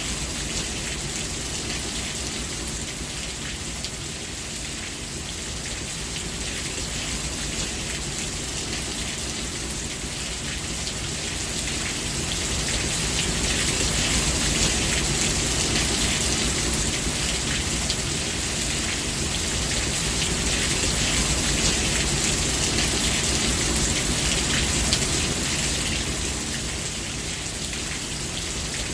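Steady rain falling, a dense hiss of drops, swelling louder through the middle and easing again near the end.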